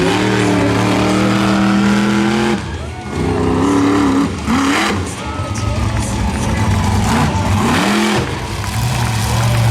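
Monster truck engine revving hard: the pitch climbs and holds high for a couple of seconds, drops briefly about two and a half seconds in, climbs again, and settles into a lower, steadier run near the end.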